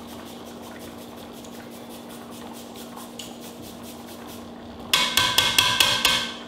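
Garlic grated on a small metal zester: faint, quick rasping strokes. About five seconds in comes a burst of about eight sharp, ringing clinks as the zester is knocked against the soup pot's rim, over a steady low hum.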